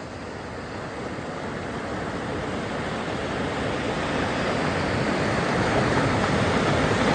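Class 3 river rapid, whitewater rushing as a steady wash of noise that grows gradually louder.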